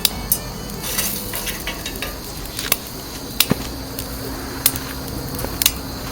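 Wood fire in a small round wood stove crackling, with sharp irregular pops over a steady hiss.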